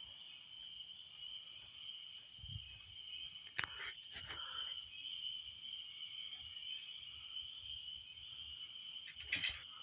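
Steady chorus of night insects, a high even trill, with a few short faint clicks in the middle and near the end.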